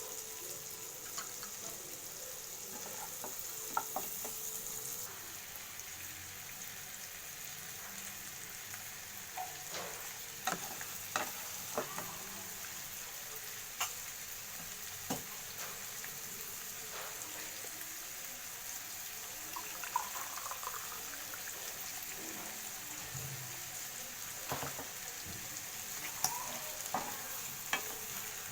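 Spring onions sizzling steadily in butter with whole spices in a pan, with scattered sharp taps and scrapes of a spoon stirring them.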